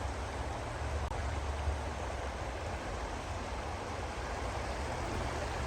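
Wind buffeting the phone's microphone during a snowstorm: a steady low rumble under an even hiss.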